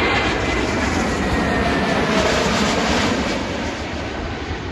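Jet airliner on landing approach passing close by: a dense rush of engine noise with a low rumble, fading away over the last second or so.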